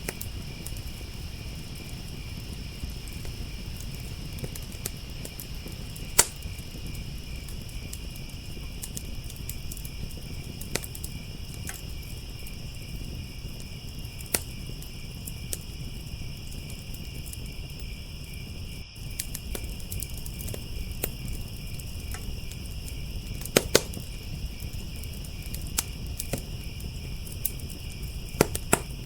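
Wood fire crackling, with scattered sharp pops, over crickets chirring steadily.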